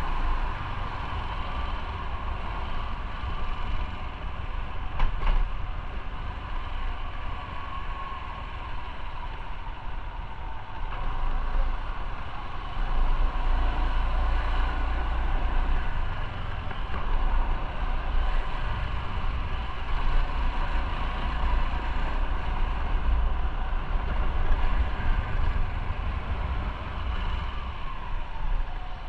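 Motorcycle running on the road, engine and road noise heard from the rider's own bike, with a heavy low rumble that grows somewhat louder about halfway through.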